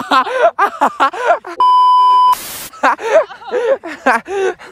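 Excited voices talking over one another, cut about a second and a half in by a steady electronic censor bleep lasting under a second, followed by a brief burst of hiss.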